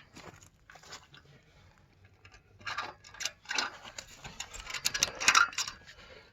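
Scattered light clicks and rustling, louder and busier in the second half: the cover of a portable storage shed being handled and fastened to its pipe frame.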